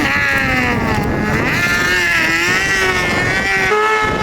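Motorcycle engine running under throttle, its pitch rising and falling as the revs change, dipping and climbing again about a second and a half in.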